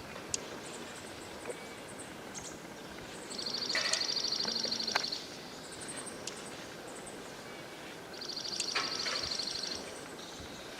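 A songbird singing a rapid, even, high trill twice, each lasting about a second and a half, with fainter high chirps from other birds over steady outdoor background noise.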